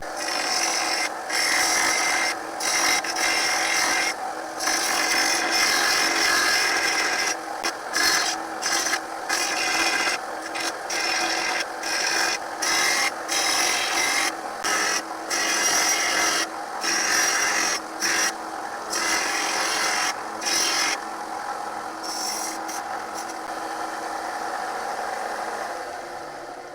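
A steel lawnmower blade ground on a belt sander's 80-grit belt, a continuous grinding with many brief breaks as the blade is lifted and put back in passes along the bevel. Near the end the grinding stops and the sander runs down.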